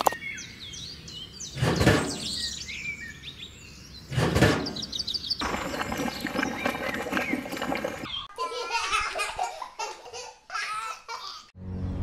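Birds chirping, with two dull thuds about two and four and a half seconds in. Then several seconds of dense pouring noise as wet cement mix is poured, followed by more chirping and a laugh-like sound near the end.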